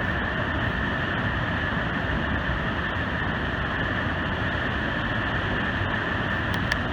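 The Great Falls of the Passaic River pouring over the cliff: a steady, dense rush of falling water with no change in level. Two faint ticks come near the end.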